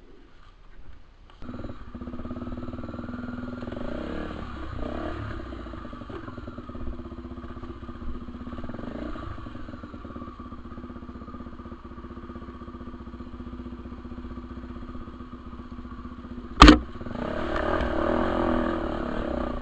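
Dirt bike engine running with small changes in speed, coming in suddenly about a second and a half in. A single sharp knock near the end, after which the engine is louder.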